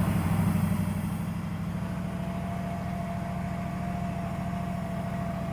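Dodge Dakota engine running steadily at a held fast idle of about 1500 rpm, easing down slightly about a second in. A high hiss stops just after a second in, and a faint steady whine sits under the engine after that.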